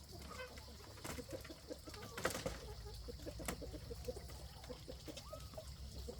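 Domestic fowl clucking: a steady run of short, low calls, with a couple of longer, higher calls near the end and a few sharp clicks.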